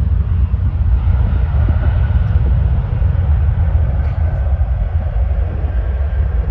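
Jet airliner's engines at takeoff power: a loud, deep, steady rumble with a faint high whine above it.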